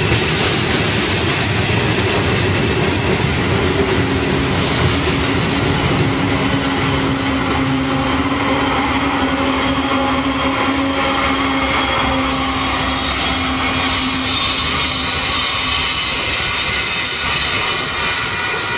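Loaded coal hopper cars of a freight train rolling past close by, steel wheels clacking and rattling over the rails with a steady squeal. A Union Pacific diesel locomotive passes about halfway through, and several high-pitched wheel-squeal tones join in during the second half.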